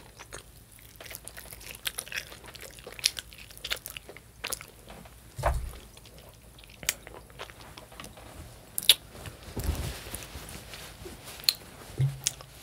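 Close-miked chewing and biting on roasted chicken wings: irregular wet, crunchy mouth clicks, with a couple of dull low thumps about halfway through and near the end.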